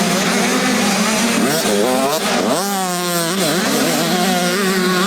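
Several motocross bikes' engines revving on the track, their pitches rising and falling as riders work the throttle. One bike climbs sharply in pitch about two and a half seconds in.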